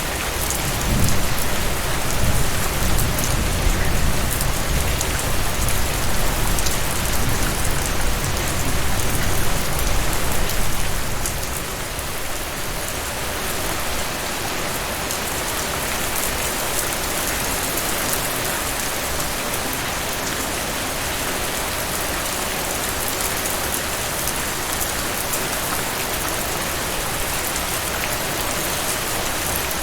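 Heavy rain falling in a steady hiss. A low rumble of thunder runs underneath from about a second in and dies away around eleven seconds.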